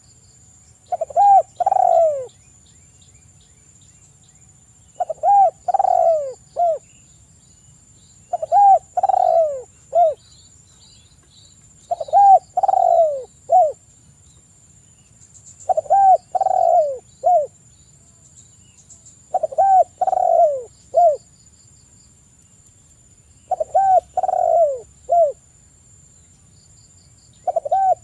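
Spotted dove (tekukur) cooing: a phrase of three or four low coos repeated about every three and a half seconds, eight times. Faint small-bird chirps sound in between.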